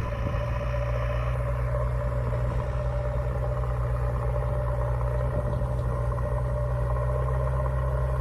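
Steady low engine idling hum, even and unchanging throughout.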